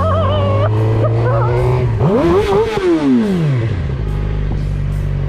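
Sport motorcycle engine running, then revving up and dropping back down over about two seconds.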